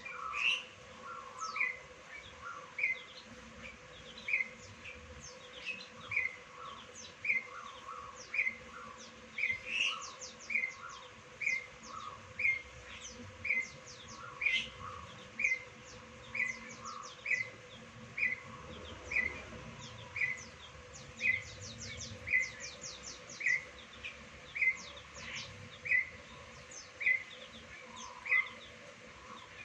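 Wild birds calling: one repeats a short chirp about once a second throughout, while others add quick high, falling chirps in clusters.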